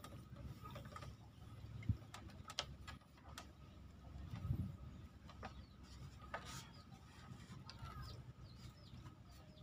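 Faint, scattered bird chirps, with a few light clicks and a soft thump about halfway through.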